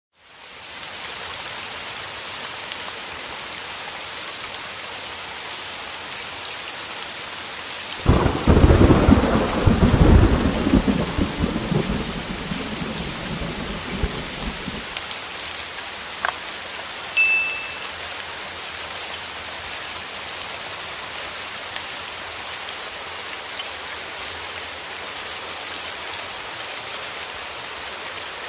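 Steady heavy rain, joined about eight seconds in by a sudden clap of thunder that rumbles loudly for a few seconds and fades back into the rain.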